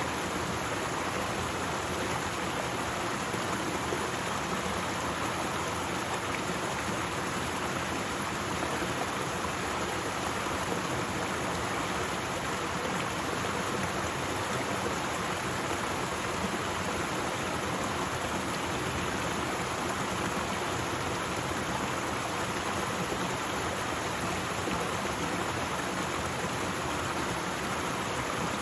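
Waterfall: a steady, unchanging noise of falling water.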